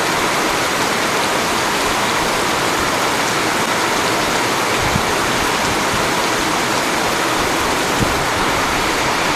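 Very heavy tropical downpour: rain pouring down in a steady, dense rush, driven by the wind.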